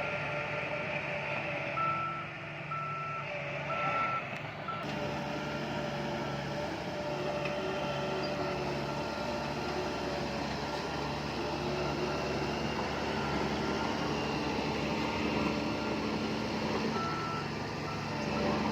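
Heavy diesel earthmoving machinery running steadily while a reversing alarm beeps about four times a couple of seconds in, then once or twice more near the end.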